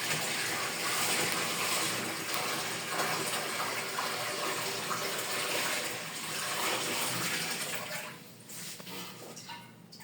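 Steady rush of water splashing into the Fastwasher's tank, tapering off about eight seconds in.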